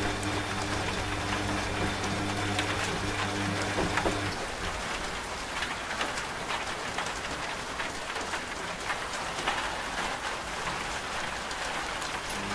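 Steady rain with scattered drops ticking, over the low, steady hum of a running washing machine that cuts off about four seconds in, leaving the rain alone.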